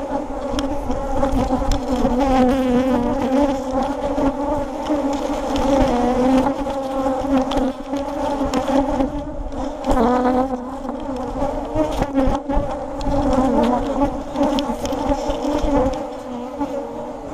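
A swarm of honeybees from an opened hive buzzing loudly and steadily, a dense hum of many wings, the sound of a colony aggravated by the inspection. A few brief knocks come through now and then.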